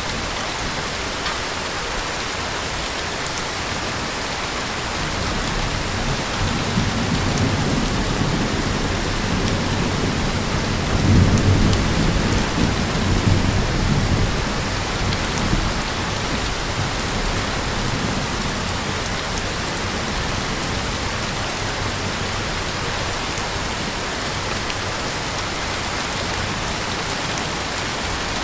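Heavy rain falling steadily, with a low rumble of thunder that builds about six seconds in, is loudest around the middle, and dies away after about sixteen seconds.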